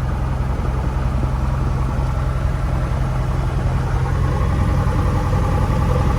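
Cessna 172F's six-cylinder Continental O-300 engine idling steadily, heard from inside the cockpit.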